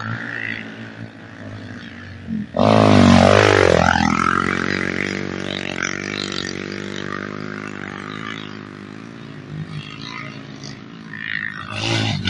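Off-road motorcycle engine running and revving: a sudden loud rev about two and a half seconds in, the pitch rising and falling, then running on with a slowly wavering pitch, and a second loud rev near the end.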